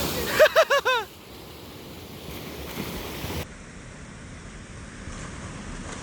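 Rushing stream water and wind noise. About half a second in, a quick run of five short chirps, each rising and falling in pitch, as the louder water noise cuts off; a quieter steady water and wind hiss follows.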